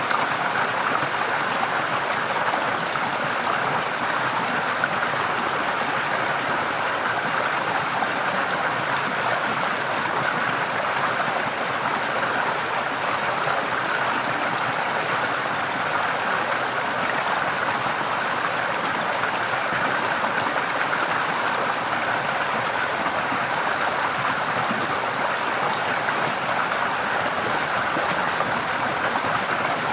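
Forest stream flowing steadily over stones, an even rushing and babbling of water with no breaks.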